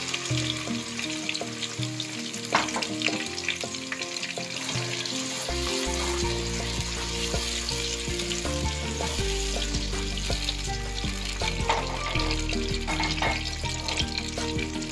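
Tomato paste sizzling as it fries in hot oil in a pan, stirred with a spatula that scrapes and clicks against the pan a few times.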